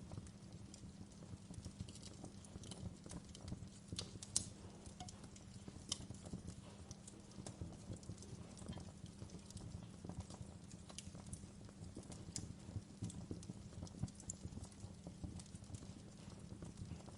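Wood fire crackling: frequent small irregular pops and snaps over a steady low rumble, with a sharper pop about four seconds in.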